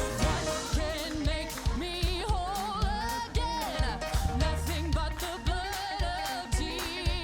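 Live gospel worship music: a band with a steady drum beat and singers holding long notes with vibrato.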